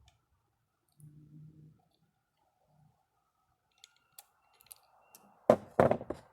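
Small metal parts and hand tools being handled on a workbench: scattered light clicks, then a loud cluster of clattering knocks near the end.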